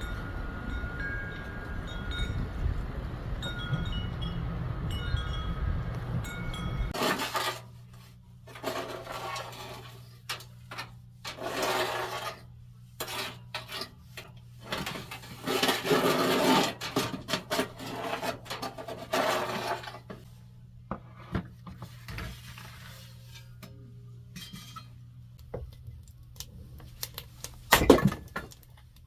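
A wind chime tinkling over steady wind noise. About seven seconds in this cuts abruptly to irregular clinks, clatters and rustles of pots, dishes and wood being handled, over a steady low hum, with a sharp knock near the end.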